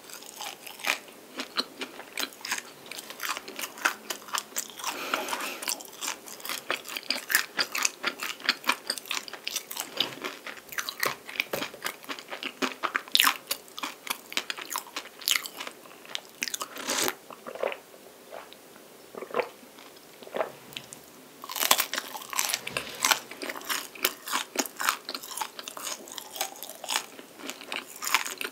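Crisp pastry being bitten and chewed close to the microphone: a dense run of crunches and crackles that eases off for a few seconds about two-thirds of the way through, then comes back as a loud burst of crunching.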